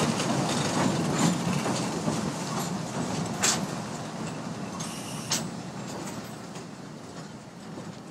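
Small narrow-gauge Ikawa Line passenger car rolling along the track, heard from on board: a steady rumble of wheels on rail with a few sharp clicks over rail joints, getting gradually quieter.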